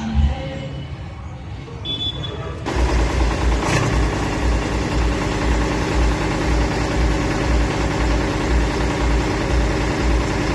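Eicher 485 tractor's diesel engine idling, with a steady, even low pulse. It comes in loud about a quarter of the way in, after a quieter stretch, with a single click a second later.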